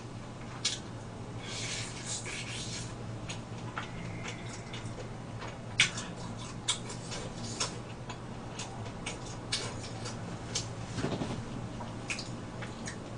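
Close-up eating sounds of someone gnawing and chewing sticky, sauce-coated pork back ribs: scattered wet clicks and lip smacks with a few short hissy sucking sounds, over a steady low room hum.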